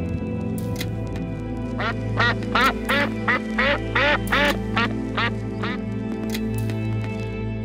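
Duck quacking: a quick run of about a dozen short calls, roughly three a second, over steady background music.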